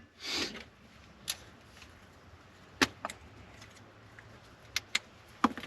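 A caulking gun being worked on a nearly empty Sikaflex cartridge that won't dispense: a handful of short, sharp clicks and knocks, spaced irregularly, with faint handling noise between them.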